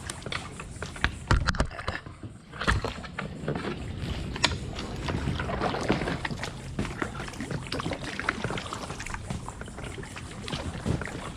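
Kayak being paddled, paddle blades dipping and splashing, with scattered sharp knocks and clicks throughout.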